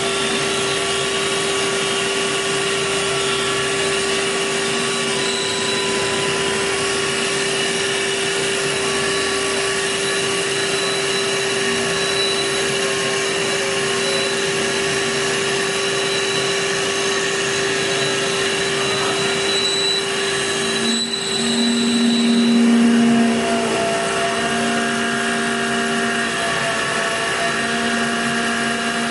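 Hager HD300A-CNC computer-controlled wood lathe running, a steady machine whine with held tones. Its sound dips briefly about two-thirds of the way through, then grows louder for a couple of seconds and settles again.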